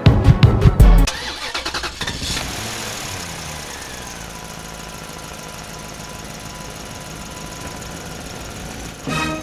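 Vehicle engine starting: a second of loud thumps, rapid cranking pulses, then it catches and settles down in pitch into a steady idle. A louder burst comes in near the end.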